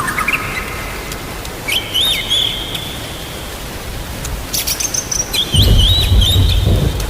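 White-rumped shama (murai batu) singing short whistled phrases over the steady hiss of rain. A low rumble of thunder comes in about five and a half seconds in and is the loudest sound.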